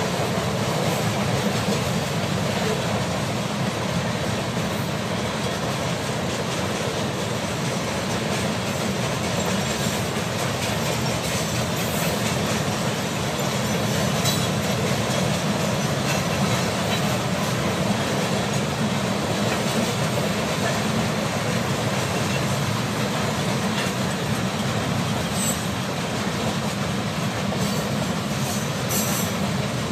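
Freight train cars rolling past, with a steady rumble of wheels on rail and a light squeal of wheels.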